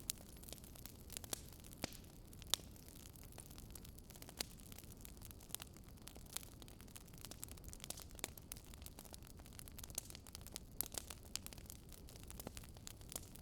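Wood fire burning in a fireplace: irregular sharp crackles and pops from the burning logs over a low, steady rumble of flame, with one louder pop about two and a half seconds in.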